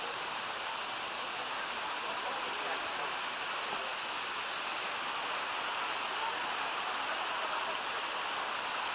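Mountain stream rushing steadily down a cascade of small waterfalls, an even hiss of falling water with no breaks.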